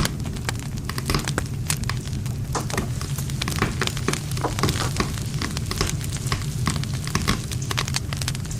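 Wood campfire burning, with a steady low rumble of flames and frequent sharp crackles and pops of the burning wood.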